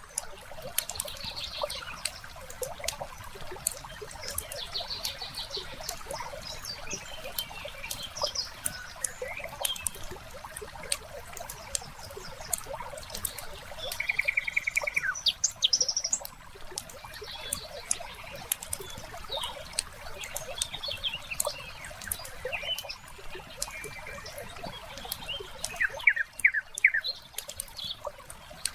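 Fireplace wood fire crackling with irregular sharp pops, while small birds chirp and trill now and then, including a quick rapid trill about halfway through and a run of chirps near the end.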